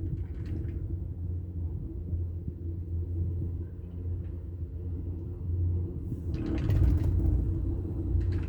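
Steady low rumble and hum of a detachable 4-seat chairlift ride, with a brief rattling clatter about two-thirds of the way through.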